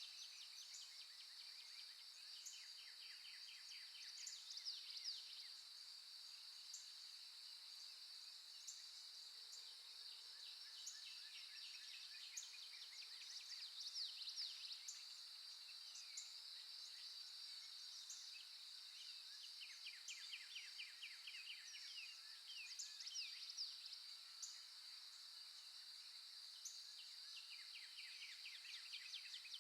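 Faint nature recording of songbirds: repeated chirps, quick trills and short whistled sweeps over a steady high-pitched whine.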